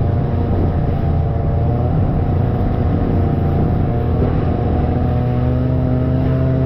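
Snowmobile engine running at a steady throttle, its pitch drifting slightly and shifting a little near the end.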